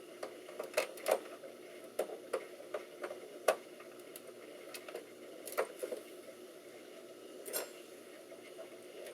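Scattered sharp clicks and taps of hands handling computer parts, pushing a connector onto a desktop video card, over a faint steady hum. The loudest knock comes about three and a half seconds in, with smaller clusters of clicks near one second and around five and a half and seven and a half seconds.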